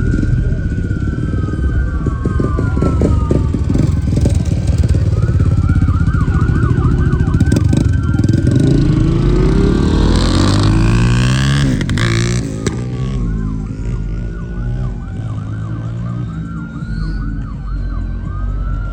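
Police siren switching between a slow wail and a fast yelp over the steady rumble of car engines; about halfway through an engine revs up with a rising pitch.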